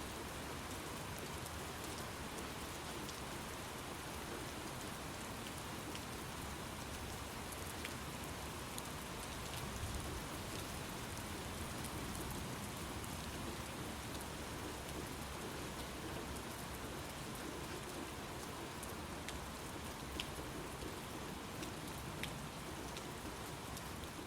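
Steady rain falling, with a few individual drops ticking sharply over the constant hiss.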